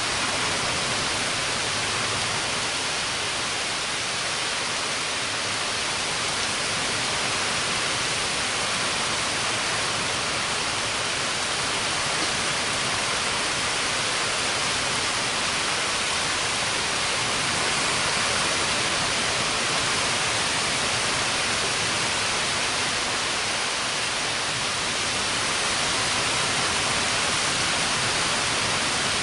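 Heavy rain falling steadily during a thunderstorm: an even, unbroken hiss with no thunder.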